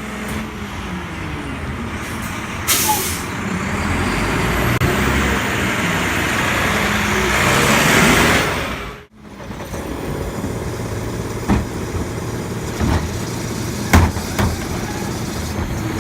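Diesel engine of a Mack LEU garbage truck running and growing louder, with a brief air brake hiss about three seconds in. After an abrupt cut about nine seconds in, the truck's engine runs steadily under a few short knocks and clanks.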